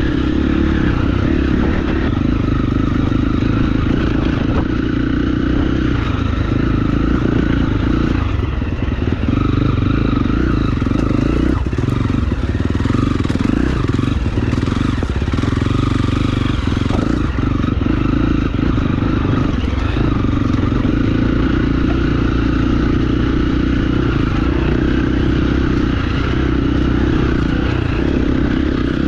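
KTM enduro dirt bike engine running under load on rough singletrack, its note rising and falling with the throttle. Knocks and rattles from the bike come and go, mostly between about eight and twenty seconds in.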